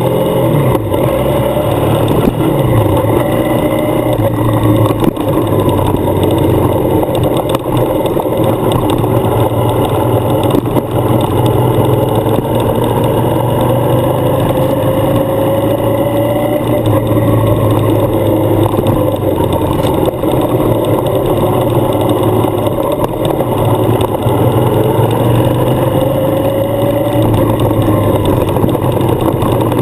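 Adventure motorcycle engine running at steady riding speed on a gravel road, mixed with wind and road noise. The engine note rises and falls gently with the throttle, slowing near the start and climbing a couple of times later on.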